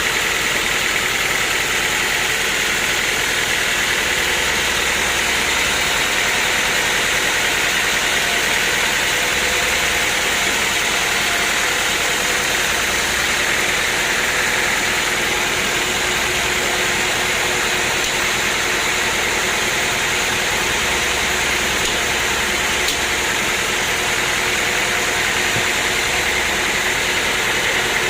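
Sawmill machinery running steadily: a continuous, even mechanical noise with no change in pitch or level.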